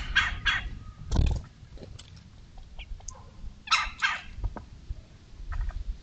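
Harsh, raspy bird calls in short groups: three quick calls at the start, one about a second in, a pair near four seconds, and a few fainter ones near the end.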